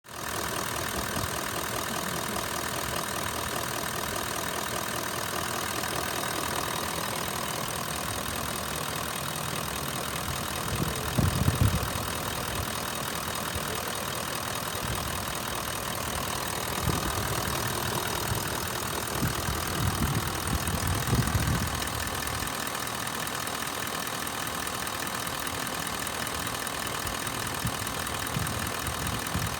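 Toyota Land Cruiser 4.5-litre V8 turbo-diesel engine idling steadily, with a few louder low swells around the middle.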